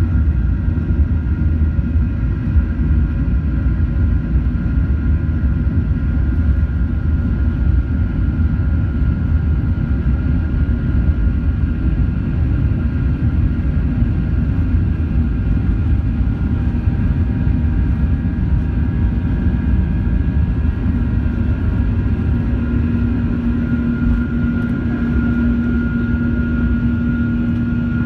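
Boeing 737-800 cabin noise during takeoff: the CFM56 engines at high thrust give a loud, steady rumble with a steady whine above it. A lower steady hum joins about three-quarters of the way through.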